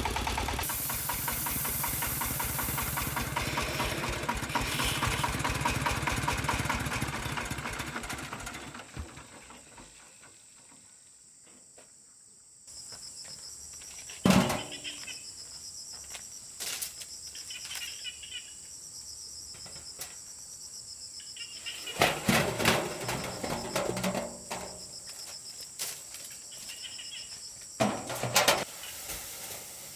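An engine running steadily, which fades out about nine seconds in. After a short quiet spell, insects drone steadily, with a few sharp knocks or taps now and then.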